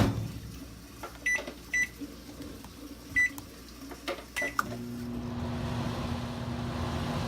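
Microwave oven being restarted: the door shuts with a sharp knock, four short keypad beeps follow, and after about four and a half seconds the oven starts running with a steady hum.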